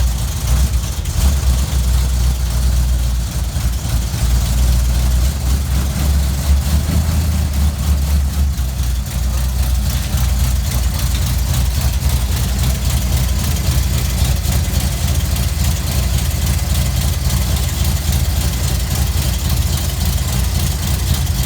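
1973 Dodge Dart Swinger's 340 small-block V8 idling steadily through its exhaust, the sound heavy at the low end and a little louder for a few seconds near the start.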